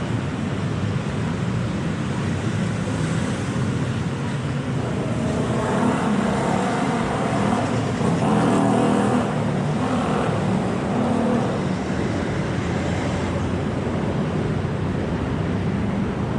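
Steady road traffic on a city street. Engines run continuously, and one vehicle grows louder as it passes close from about five to eleven seconds in.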